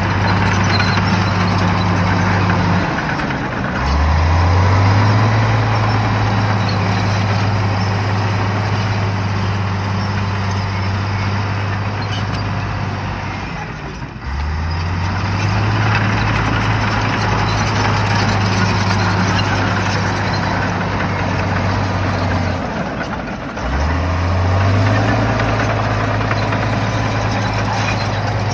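Shantui bulldozer's diesel engine running hard under work. Three times, about 3, 14 and 23 seconds in, the engine note drops away briefly and then climbs back up in pitch as the engine revs up again.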